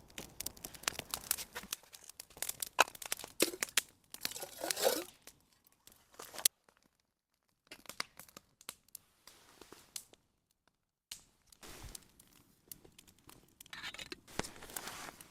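Irregular crackling, crunching and tearing of dry material, with many sharp clicks, dropping out twice to silence.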